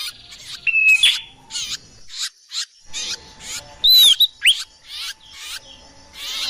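Bird-lure recording of songbird calls: a rapid, dense series of sharp chirps and short whistles, some arching or falling in pitch, with the loudest arched whistle about four seconds in.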